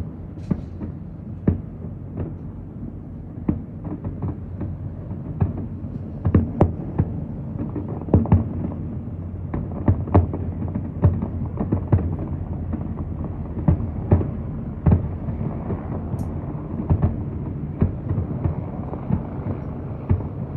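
Aerial fireworks shells bursting in a long, irregular run of sharp booms, roughly one a second, over a steady low rumble.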